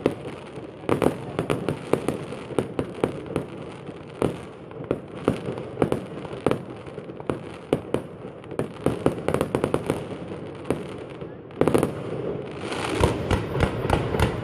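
Fireworks display: a rapid string of bangs and crackles, with a heavier burst about three quarters of the way through and denser crackling near the end.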